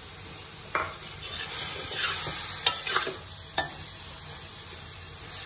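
Grated radish and sliced onions sizzling in a steel kadai on full flame while a metal slotted spatula stirs and scrapes through them, with a few sharp clinks of the spatula against the pan. The frying is cooking off the radish's water.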